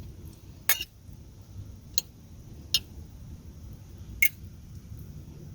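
Cutlery clinking on a plate: four separate short clicks spread over a few seconds, over a faint low hum.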